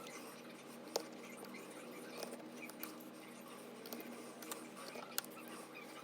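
Small hand tools and phone parts clicking and tapping during work on an iPhone's charging port. There are scattered light ticks, with two sharper clicks, about a second in and near the end, over a faint steady hum.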